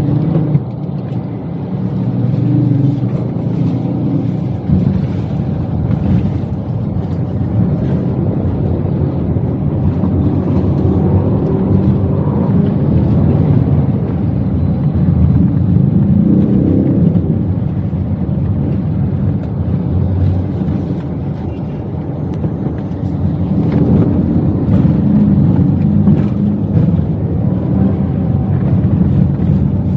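Toyota Wigo's engine and road noise heard from inside the cabin while driving: a steady low rumble that rises and falls in pitch a few times as the car speeds up and slows down.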